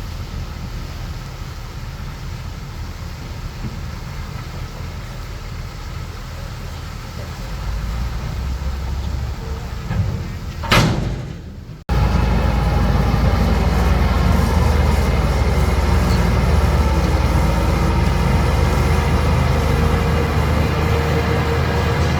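Diesel engine of heavy earthmoving machinery running steadily. About eleven seconds in there is a brief loud burst of noise, then an abrupt jump to a louder, steadier engine sound.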